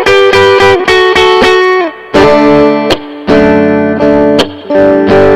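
Electric guitar played through a Mesa Boogie Recto-Verb 25 tube combo on its clean channel. Ringing chords follow one another about once a second, some sliding down in pitch, with short breaks between phrases.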